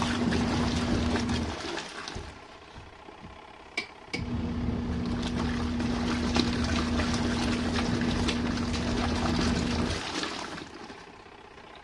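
RV washing machine agitating in its main wash. The wash motor hums steadily with water sloshing, stops about a second and a half in, and is quiet for about two and a half seconds apart from two quick clicks. It then runs again for about six seconds and stops near the end.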